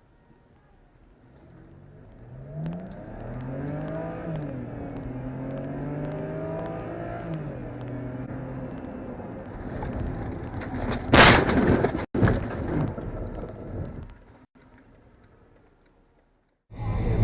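A car engine accelerating and shifting, its pitch rising and falling, then a loud collision impact about eleven seconds in with a couple of smaller bangs after it. Music starts abruptly right at the end.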